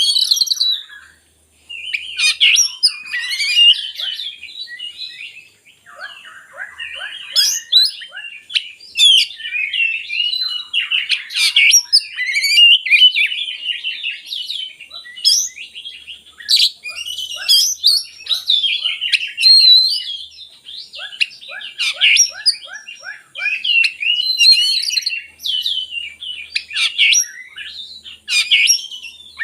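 Oriental magpie-robin (kacer) singing almost without pause: a fast, varied song of sweet whistles, trills and chattering phrases, with runs of rapid repeated notes. It is the full, mimicry-rich song that keepers play to coax a silent kacer into singing.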